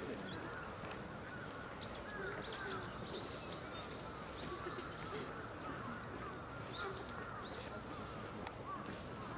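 Small birds chirping in quick, short calls, most busily in the middle of the stretch, over a steady outdoor background hiss.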